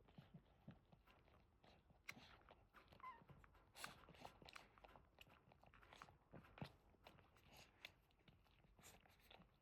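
Faint wet licking and smacking from a Boston terrier mother cleaning her newborn puppies, as scattered soft clicks, with one short faint squeak about three seconds in.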